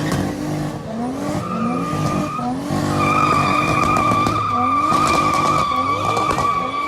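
Car tires squealing in a steady high screech, louder from about three seconds in, while the engine revs up again and again.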